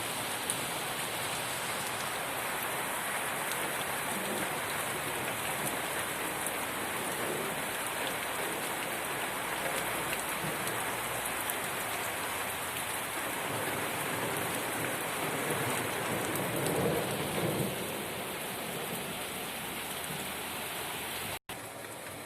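Downpour of heavy rain falling steadily, with a brief swell in loudness about three-quarters of the way through.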